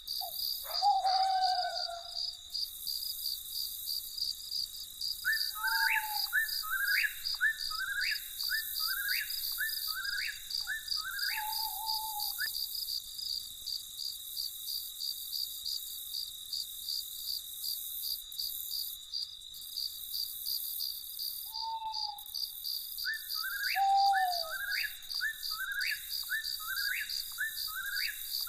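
Crickets chirping in a steady, unbroken trill, over which a night bird gives two runs of short repeated calls, about one a second, along with a few lower, falling notes.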